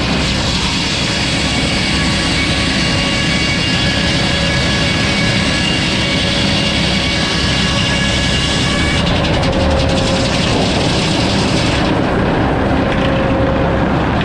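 Sawmill running loud and steady, with several steady whining tones over a dense machine noise; the highest pitches fall away about two-thirds of the way through.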